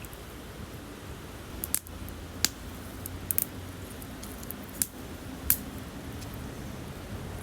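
Campfire crackling: a steady hiss broken by several sharp pops of burning wood.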